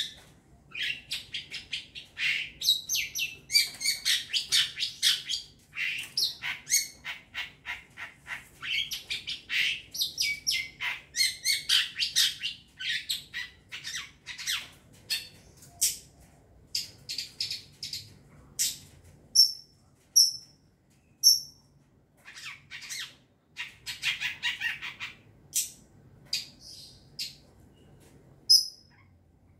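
Young long-tailed shrike singing: rapid, dense runs of short chirps and harsh scratchy notes, broken by brief pauses, with a few short high whistles around twenty seconds in.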